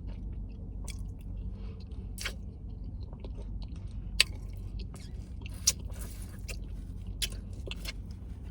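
Close-miked chewing and mouth smacking, with irregular wet clicks and two sharper smacks about four and five and a half seconds in, over a steady low hum.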